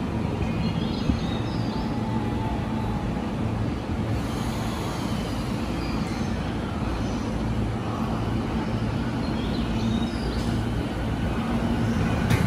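JR Musashino Line electric commuter train pulling slowly into the station platform, its motors and wheels running at low speed with a few brief faint high squeals, getting louder near the end as the cars pass close by.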